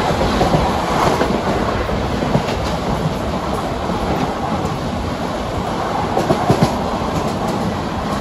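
Express train running at speed, heard from on board: a steady rumble of wheels on rail with clickety-clack over the rail joints, and a few sharper knocks about six seconds in.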